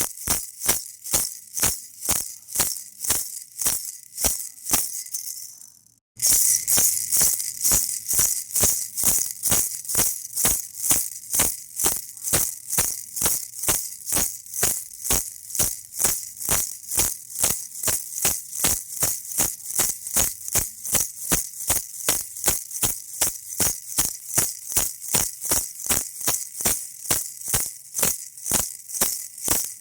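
A baby rattle shaken in a steady rhythm, about three shakes a second. The shakes fade and cut out briefly about six seconds in, then start again louder.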